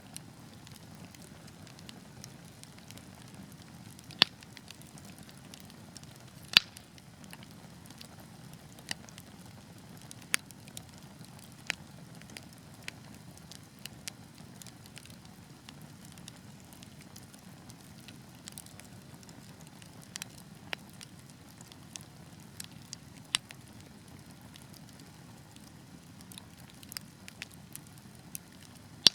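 Wood fire burning with a steady low rustle and irregular sharp crackles and pops, the two loudest about four and six and a half seconds in.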